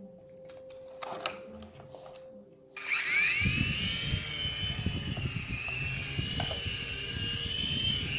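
A few light clicks, then about three seconds in a remote-control toy helicopter's electric motor starts: a high whine rises quickly, then holds nearly steady with a slight wobble over a low rumble.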